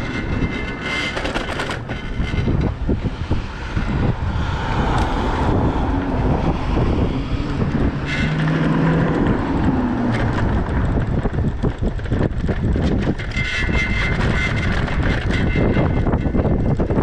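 Wind buffeting the microphone and street traffic noise during a ride on an electric bike, with a vehicle passing about midway.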